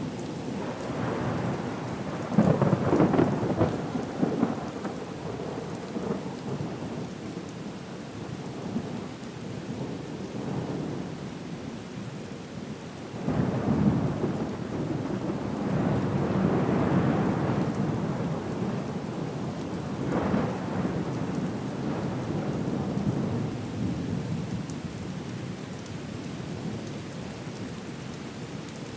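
Storm soundscape: steady rain hiss under rolling rumbles of thunder, the loudest swelling up about two and a half seconds in, another from about thirteen seconds in, and a smaller one near twenty seconds.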